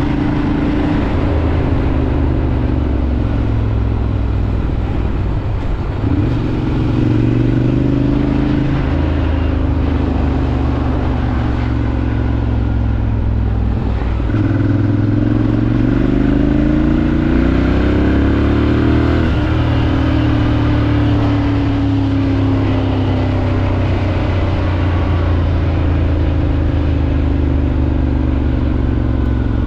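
Ducati Monster 796's air-cooled L-twin engine running under way. It holds a steady note, climbs in pitch about six seconds in, then rises in a long sweep for about five seconds through the middle and drops back sharply at a gear change.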